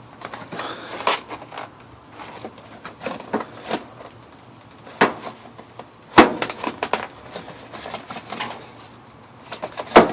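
Metal HVAC run capacitors knocking and clinking against each other as they are sorted through by hand, with a few sharp knocks among lighter rattling.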